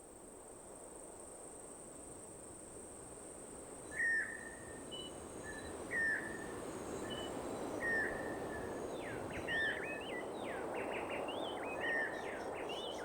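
Tropical rainforest ambience fading in, with a short bird call repeated about every two seconds and, from about nine seconds in, a run of quick rising and falling chirps over a steady high-pitched whine.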